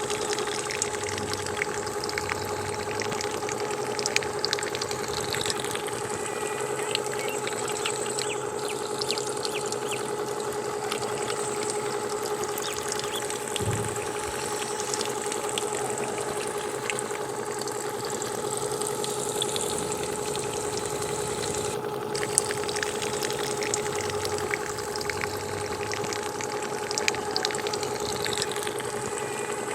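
Small electric water pump running with a steady whine, with water splashing and trickling over it.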